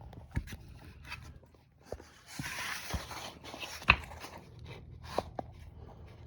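Handling knocks, clicks and rustling as a camera is propped up against a rubber mallet. A sharp knock about four seconds in is the loudest.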